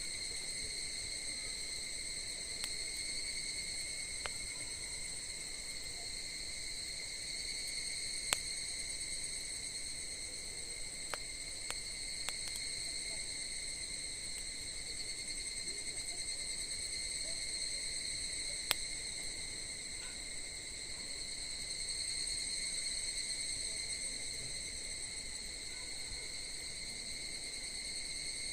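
A continuous high-pitched insect trill, steady throughout, with a few sharp single pops of burning wood from the campfire.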